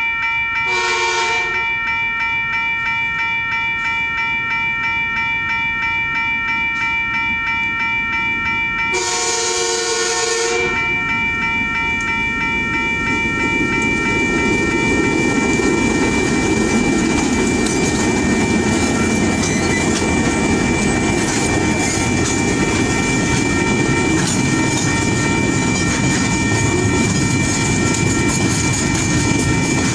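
TasRail diesel freight train sounding its horn twice, a short blast about a second in and a longer one about nine seconds in, over the steady ringing of the level crossing bell. From about twelve seconds the locomotives' rumble and the clatter of wheels on the rails build up and grow louder as the train reaches the crossing.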